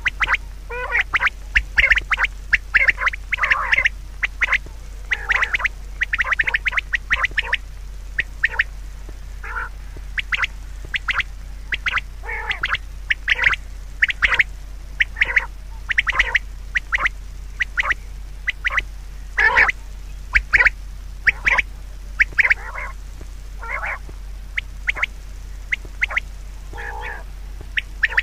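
Birds calling: many short calls in quick runs with brief gaps, over a steady low hum.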